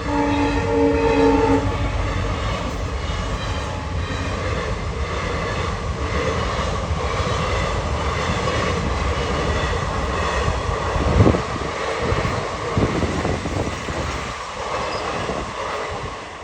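Indian Railways passenger train passing at speed, its horn sounding a steady chord for about the first second and a half. Then a continuous rumble with wheels clattering over rail joints, and one loud knock about eleven seconds in.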